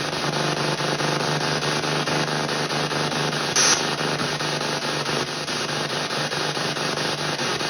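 PSB7 spirit box sweeping the radio band in reverse, played through stereo speakers: a continuous rapid-fire chop of static and brief snatches of broadcast sound over a steady low hum, with a short burst of bright hiss about three and a half seconds in.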